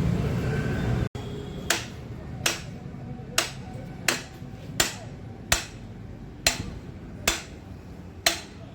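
Vehicle engine running until a sudden cut about a second in, then a hammer striking again and again, a sharp blow with a short ring about every 0.8 seconds.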